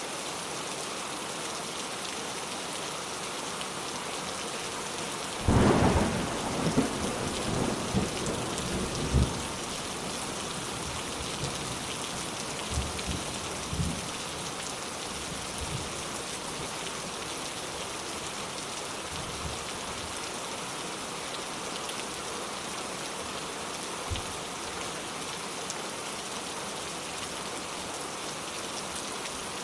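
Steady rain falling, with a clap of thunder about five seconds in that rolls on for a few seconds in fading rumbles, then fainter rumbles a few more times.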